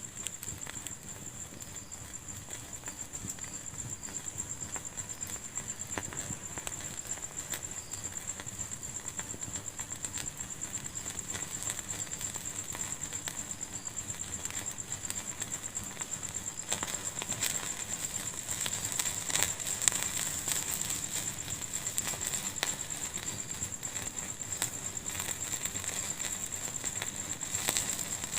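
Fire burning in a fireplace, crackling with many small pops over a steady high hiss. The pops come thicker and louder about two-thirds of the way through.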